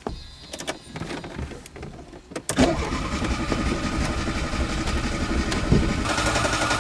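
A few knocks and clicks, then about two and a half seconds in a Renault 9's starter motor begins cranking the engine and keeps cranking steadily. The car is on a cold start with the choke pulled, and the engine is not firing properly.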